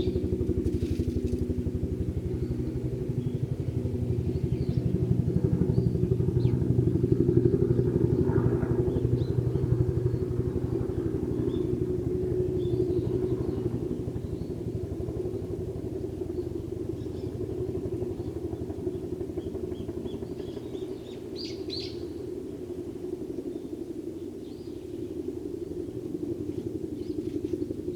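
A nearby motor engine starts abruptly and runs steadily with a low, rapidly pulsing sound. It grows louder about seven to nine seconds in, then slowly eases off. Faint sparrow chirps are heard over it.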